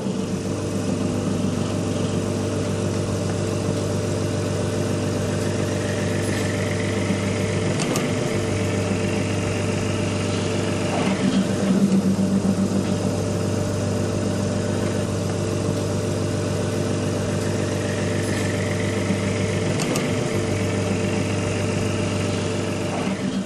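3D sublimation vacuum heat-press machine running with its vacuum pump on, a steady mechanical hum throughout, with a faint rising whine twice. The mended silicone vacuum cover is being tested under vacuum.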